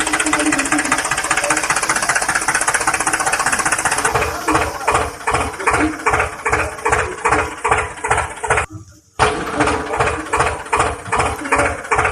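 A small motor running with a fast, dense buzz, then a steady chugging pulse about two or three times a second. The sound cuts out for about half a second near the end, then the chugging resumes.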